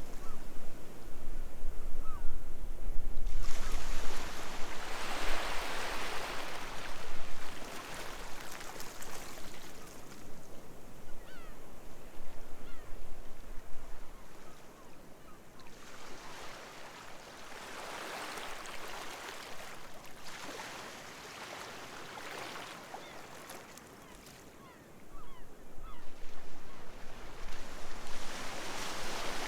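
Sea waves breaking and washing up a beach in slow surges a few seconds long, separated by quieter spells, with short calls from gulls scattered throughout.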